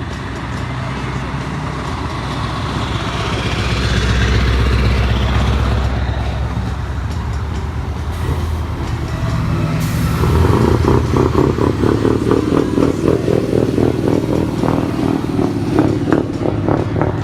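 Heavy truck engines running, swelling about four to six seconds in; from about ten seconds a louder, rapidly pulsing diesel engine sound.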